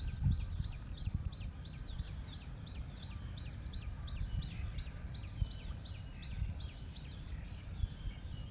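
A bird calling in a rapid series of short, high chirps, about four to five a second, regular at first and looser later. A steady, very high thin whine and an uneven low rumble run underneath.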